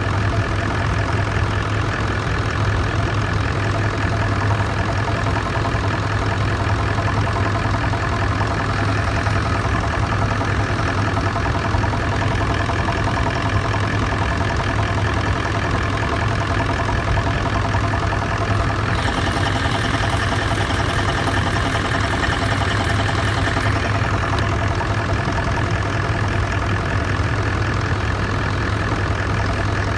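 Toyota Land Cruiser 200's 4.5-litre V8 turbodiesel idling steadily, with the knock the owner hears when the oil filler cap is off and cannot explain.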